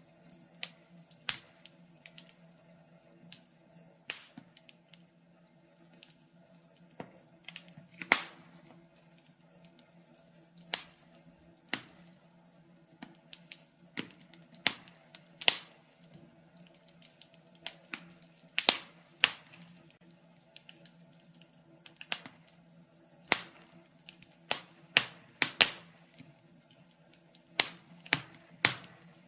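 Wood fire burning in a fireplace, crackling with sharp irregular pops a few times a second over a faint steady hum.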